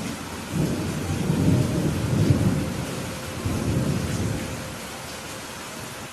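Steady rain with a roll of thunder: a deep rumble comes in about half a second in, swells twice and dies away after about five seconds.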